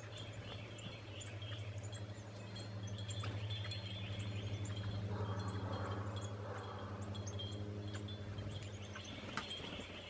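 Small songbirds chirping and twittering in quick, scattered calls, over a steady low hum.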